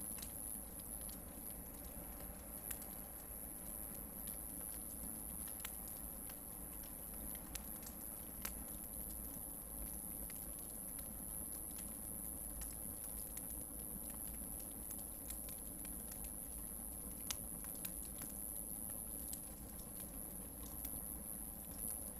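Hardwood campfire crackling: scattered sharp pops and snaps, a few louder than the rest, over a low steady hiss of burning wood.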